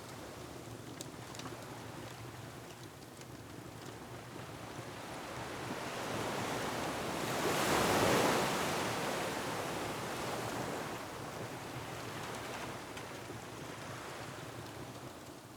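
Ocean surf: a wave swells and breaks about halfway through, then washes back down. Faint crackles of a wood fire sound now and then.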